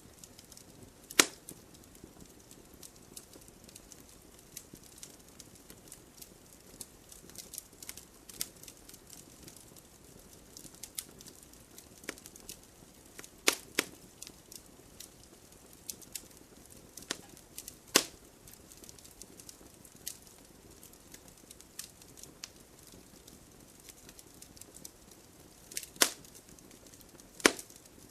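Campfire crackling: a low steady hiss with irregular small snaps and a handful of loud sharp pops from the burning wood.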